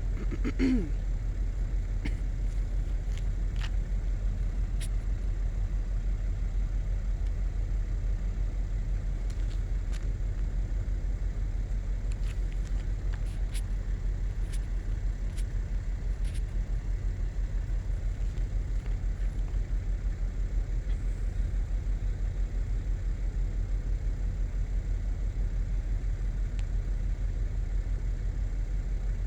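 Steady low rumble of an idling vehicle engine, with a short, brief sound about half a second in.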